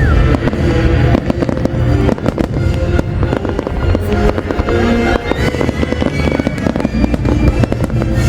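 Fireworks display going off non-stop: rapid, dense bangs and crackles over loud music.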